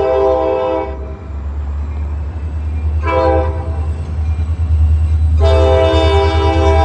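Kansas City Southern diesel locomotive's air horn sounding several notes at once: the end of one blast, a short blast about three seconds in, then a long blast starting near the end, over the train's steady low rumble. The long–short–long run fits the end of the standard grade-crossing horn signal.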